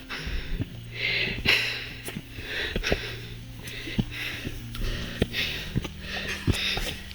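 A person breathing hard and fast, each breath a hissy puff roughly once a second, out of breath from a hard uphill trek, with scattered sharp clicks.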